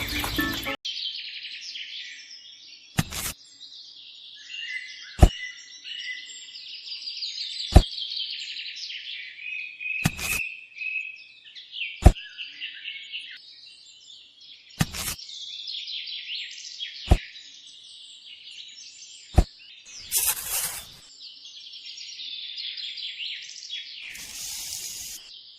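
Birds chirping and singing continuously, with a sharp click or knock about every two seconds and two short bursts of hiss near the end.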